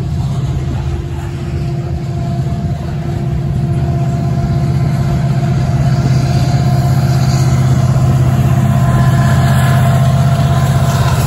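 Loaded covered hopper cars rolling past, with the diesel engine of a Union Pacific locomotive at the rear of the train running under power, its steady low drone growing louder as it approaches.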